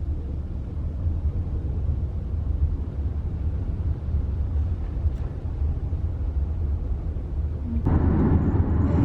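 Steady low rumble with a faint hiss above it, growing louder and fuller about a second before the end.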